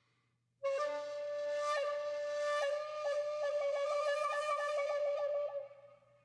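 Background music: a solo flute-like wind instrument holds a long note, then plays quick trill-like flicks on it before fading out near the end.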